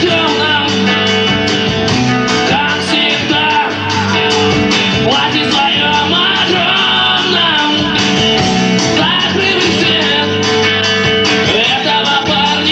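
Rock band playing live: distorted electric guitars, bass and drums with a steady beat, and a voice singing over them.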